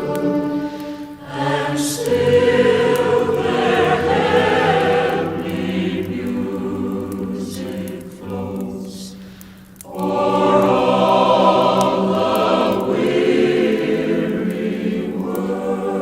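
Choir singing a slow Christmas carol in long held chords. The sound fades briefly about nine seconds in, then swells again.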